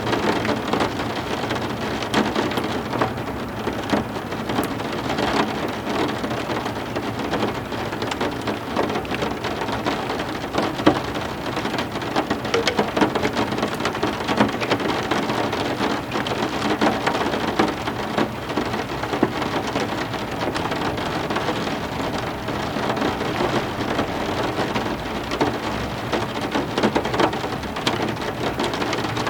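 Heavy rain falling steadily, a dense even hiss thick with separate drop hits.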